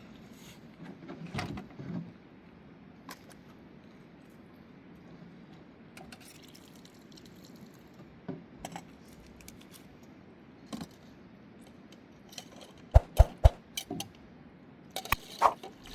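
Scattered light clinks and knocks of small hard objects, with a quick run of sharp, louder knocks about thirteen seconds in and more near the end.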